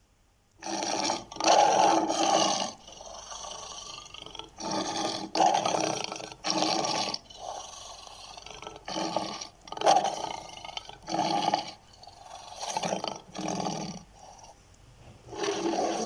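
A big cat roaring and growling in a string of about nine loud calls, each half a second to a second long, starting about half a second in.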